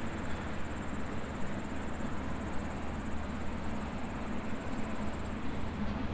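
Steady outdoor ambience: a low, even rumble under a continuous high-pitched, rapidly pulsing chirring of insects.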